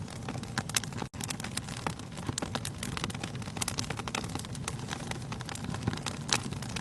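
Wood fire in a fireplace crackling steadily over the low rumble of the flames, with a couple of louder pops. The sound cuts out for an instant about a second in.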